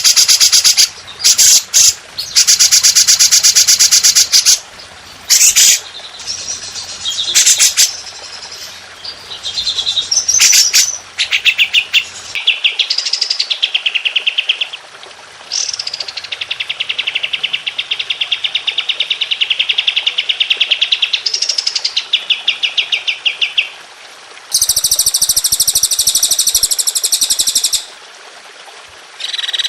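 Songbirds singing rapid, rattling trill phrases, the long 'tembakan' bursts of a masteran training recording. Short loud bursts come in the first few seconds, then one long even trill lasts about five seconds, and near the end a higher trill follows.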